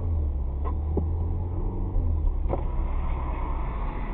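Steady low rumble of a car driving, with a few light knocks about a second in and again past the halfway mark.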